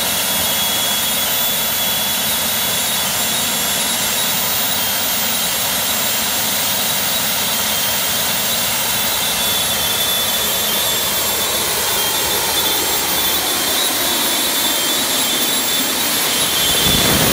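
Jet engine of a jet-powered gyroplane running steadily on its first start: a loud, even rush with a high whine over it.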